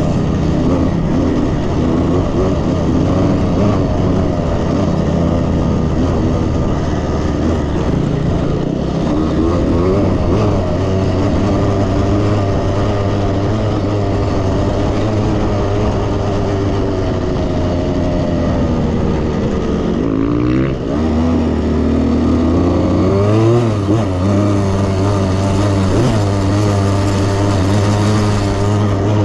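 KTM 65 two-stroke dirt bike engine running under throttle, its pitch rising and falling with the revs. About twenty seconds in the revs drop off briefly, then climb again.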